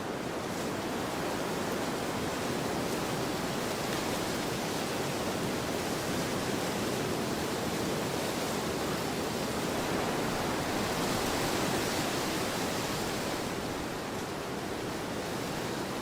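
Wind blowing in a field: a steady rushing hiss that swells a little about two-thirds of the way through, then eases.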